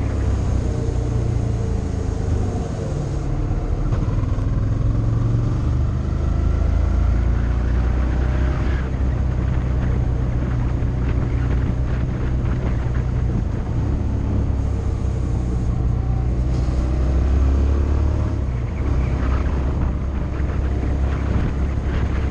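Motorcycle engine running on the move, with a slowly rising pitch as it accelerates that drops off about nine seconds in and climbs again near the end, over wind and road noise.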